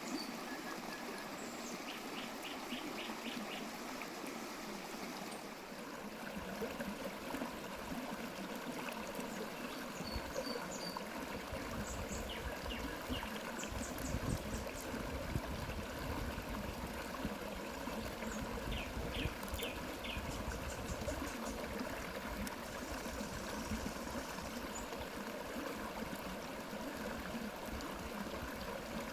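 Water flowing steadily, like a stream or brook, with short bursts of bird chirps now and then.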